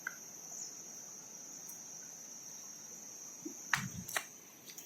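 Crickets chirring in one steady, high-pitched, unbroken drone, with two or three sharp clicks a little under four seconds in.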